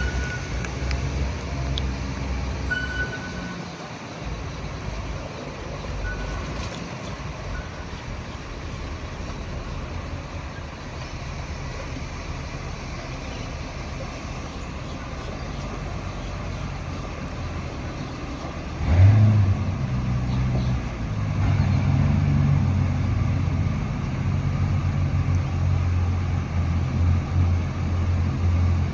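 Twin Mercury outboard engines of a performance boat running underway, a low rumble that suddenly grows much louder about two-thirds of the way in and holds there as the throttles open for a top-speed run.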